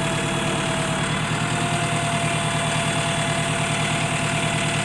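Truck engine running steadily to power a truck-mounted crane, with an even pulsing rhythm and a thin steady whine over it.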